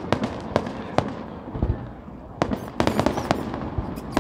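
Fireworks bursting overhead in an irregular string of sharp bangs and crackling reports, thickening into a dense run about two and a half seconds in.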